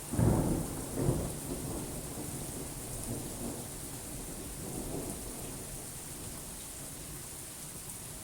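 Thunder over steady rain: a sudden loud clap just after the start, a second peak about a second in, then a rumble that dies away over the next few seconds while the rain hiss goes on.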